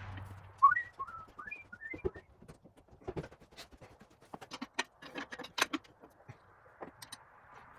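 A low hum stops about half a second in, and a sharp knock follows. Over the next two seconds come a few short chirping whistle notes, then scattered clicks and taps of parts and tools being handled at the drill press.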